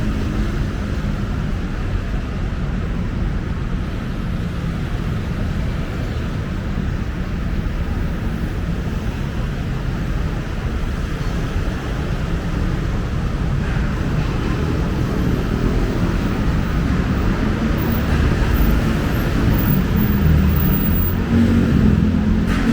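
Steady rumble of city road traffic, growing a little louder near the end.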